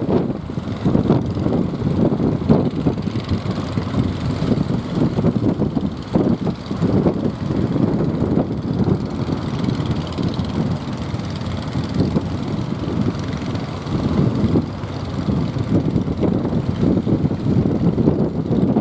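Strong wind buffeting the microphone: a heavy, low rumble that rises and falls in gusts.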